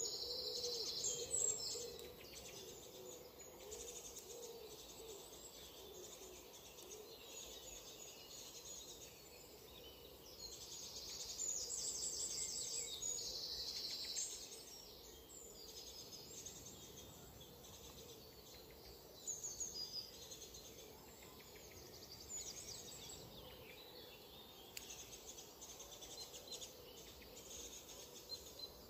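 High-pitched bird calls given as quick runs of notes, loudest at the start and again about eleven to fourteen seconds in, with fainter calls between, over a steady low background noise.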